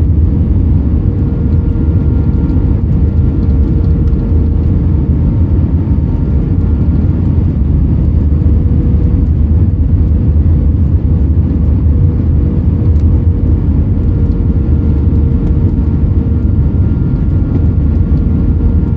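Steady cabin roar inside an Airbus A320-232 with IAE V2500 engines: a deep, even rumble of engine and airflow noise with a thin steady hum running through it.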